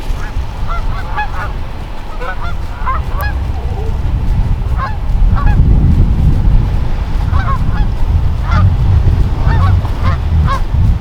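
A flock of geese honking, with many short calls following one another. A low rumble runs underneath and grows stronger about halfway through.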